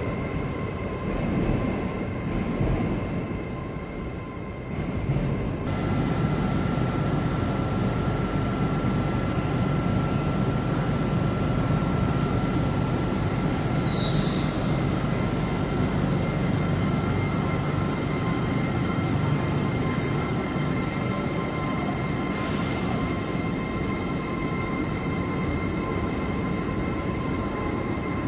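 A Hitachi-built LNER Azuma train runs with a steady low rumble and several steady high whining tones from its equipment. A short, falling high squeak comes about halfway through.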